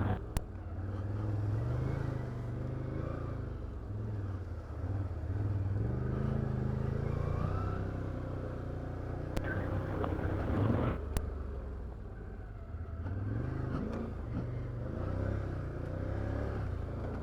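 Can-Am Outlander 850 ATV's V-twin engine running on a trail, its note rising and falling with the throttle. Three sharp clicks fall about half a second in and twice around the middle.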